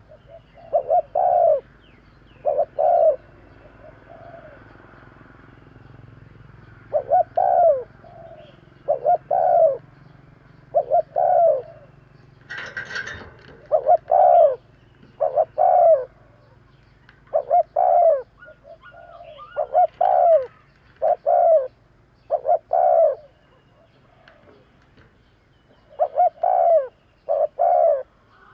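Spotted dove cooing: loud, repeated phrases of two or three short coos, with a pause of several seconds about 3 s in. A brief rustling noise comes about 12 seconds in.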